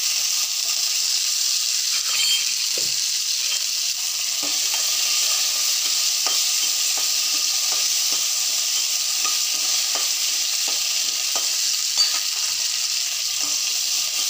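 Green chillies, cumin and coriander seeds sizzling steadily as they fry in a steel kadai. A metal spatula stirs them, with small scrapes and clicks against the pan now and then.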